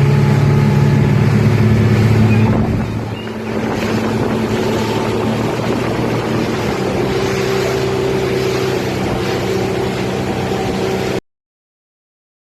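Tour boat's engine running steadily, a constant low drone under a noisy rush of wind and water, dipping a little about three seconds in. The sound cuts off abruptly near the end.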